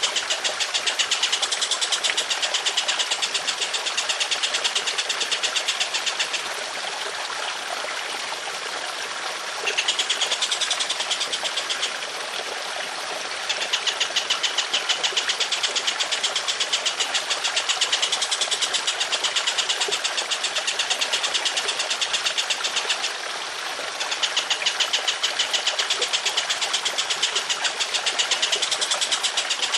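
A songbird calls in long, rapid-fire rattling runs of high notes, the harsh 'tembakan' fire used in masteran tutoring tracks. There are three brief breaks, where only the steady trickle of running water is heard.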